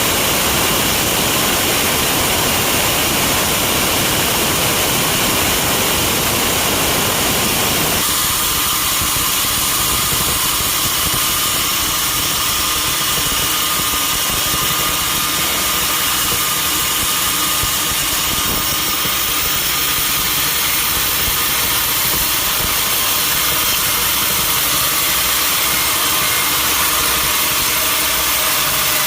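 Sawmill machinery running steadily and loudly. About eight seconds in, the heavy low rumble drops away, leaving a steady high hum and hiss.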